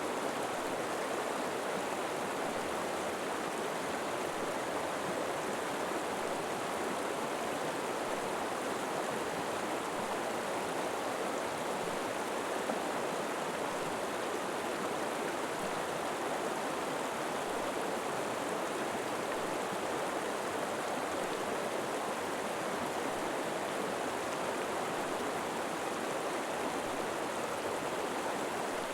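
River water flowing steadily over rocks, a constant even rush with no breaks.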